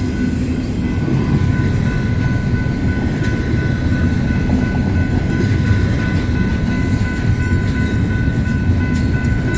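Freight cars of a BNSF intermodal train rolling past: a steady, loud rumble of wheels on rail, with a faint steady high whine above it.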